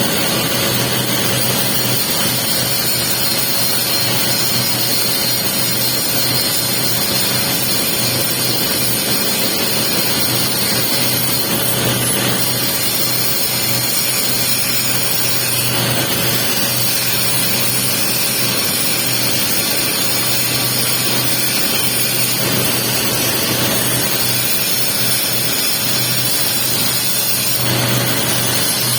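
Welding arc crackling and hissing steadily during a capping pass on a pipe joint, over a steady low hum.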